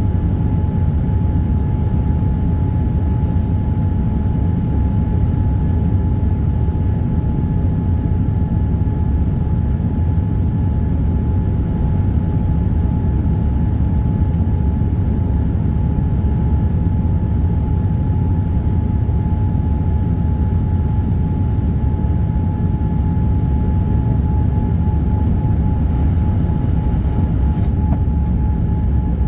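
Steady cabin noise of a Boeing 787-9 airliner: a loud, even drone of engines and airflow heard from inside the cabin, with a thin steady whine running through it.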